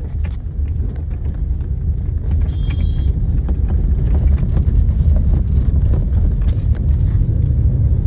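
Steady low rumble of a car being driven, with engine and road noise. A brief high tone sounds about two and a half seconds in.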